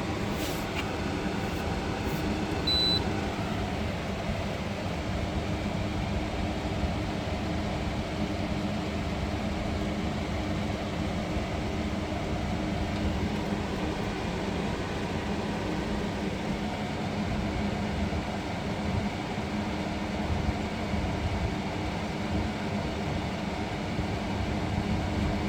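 Window air conditioner running on its fan alone, a steady hum, with the compressor not yet cycled on. A brief high beep about three seconds in.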